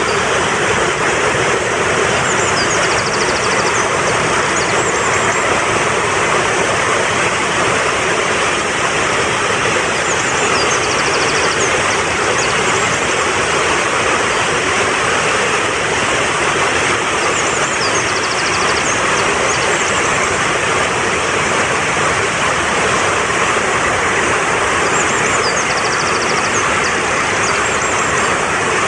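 Fast-flowing mountain stream rushing steadily. A faint high bird call, a few chirps and a quick trill, comes four times, about every seven or eight seconds.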